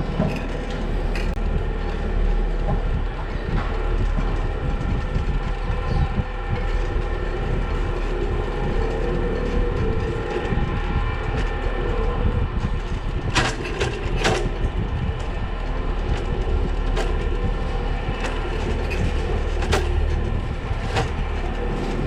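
Continuous rumble and rattle of a bicycle ride through city streets, picked up by a bike-mounted action camera, with a few sharp clicks in the second half.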